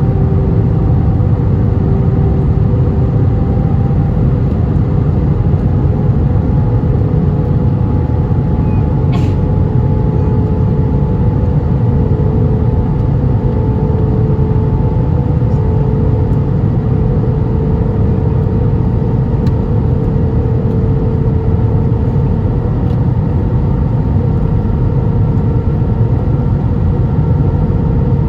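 Airbus A320 cabin noise: a steady, loud rumble of the engines and airflow, with a faint engine tone slowly rising in pitch. A brief click sounds about nine seconds in.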